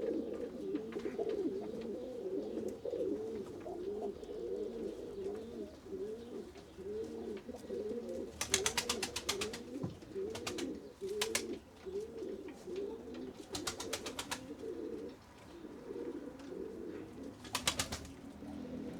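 Pigeons cooing steadily in a chorus of overlapping low, rolling coos. Several short bursts of rapid sharp clicking break in, the longest near the middle.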